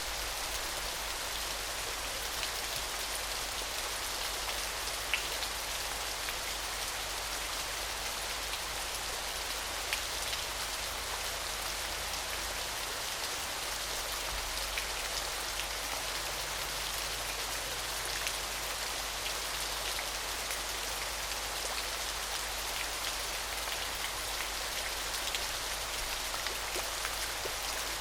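Small waterfall splashing steadily, an even hiss of falling water with scattered drips and splashes.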